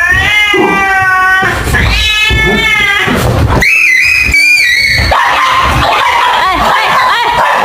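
Long, wavering cries from a pet animal, several in a row, with a higher-pitched one about four seconds in.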